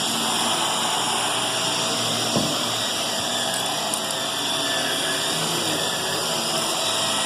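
Vacuum cleaner running steadily over carpet, with a light knock about two and a half seconds in.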